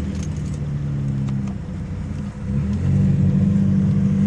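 Car engine running at low revs, then pulling harder about two and a half seconds in, its pitch rising a little and getting louder as the car accelerates.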